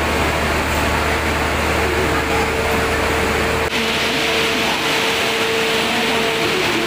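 Steady mechanical drone of a passenger train standing at a station platform, its engines or generators running, with a constant hum. About halfway through the low rumble drops away and a brighter hiss takes over.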